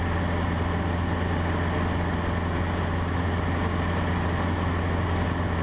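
Cessna 150's Continental O-200 four-cylinder engine and propeller running steadily at cruise power, heard from inside the cockpit as a constant low hum.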